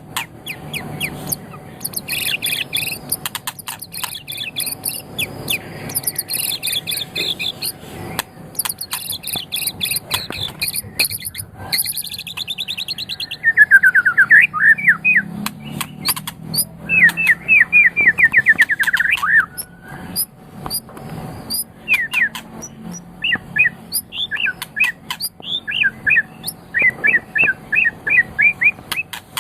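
White-rumped shama (murai batu) singing a long, varied song. It opens with rapid high trills and chattering phrases, runs through a loud, fast series of repeated notes about halfway through, and ends with short, sharp whistled notes.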